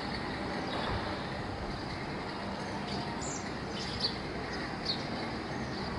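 A few short, high bird chirps in the second half over a steady background rumble.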